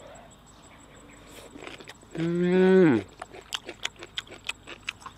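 Close-up chewing of a crunchy mouthful of string-bean and shellfish salad, with rapid sharp wet clicks and crunches through the second half. About two seconds in, the loudest sound is a long, low voiced call lasting under a second that holds its pitch, then drops at the end.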